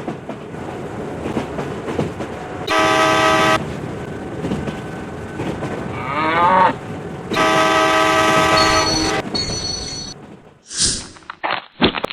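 A horn blowing in steady-pitched blasts, a short one a few seconds in and a longer one past the middle, over a constant rumble. A short call that bends in pitch comes just before the second blast, and a brief whoosh and a few sharp sounds come near the end.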